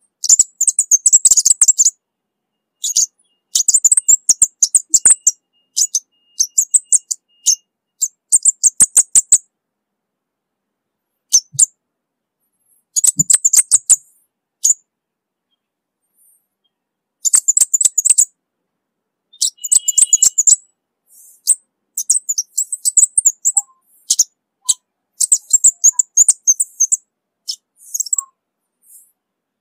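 Orange-bellied flowerpecker singing: repeated bursts of very high, rapid ticking notes, each one to two seconds long, with short silences between.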